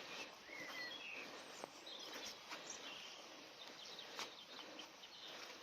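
Quiet outdoor ambience with a few faint, short bird chirps and occasional soft clicks.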